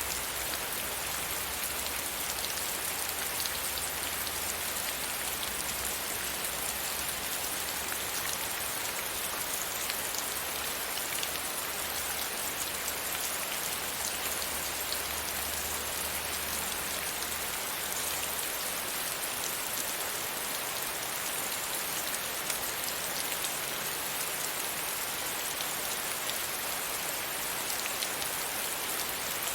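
Steady rain pattering against a window pane, a dense even hiss of many small drops. A faint low rumble underneath fades out about two-thirds of the way through.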